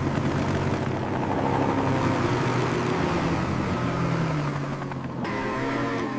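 A vehicle engine runs steadily under a rushing noise, and the higher rushing cuts off suddenly about five seconds in.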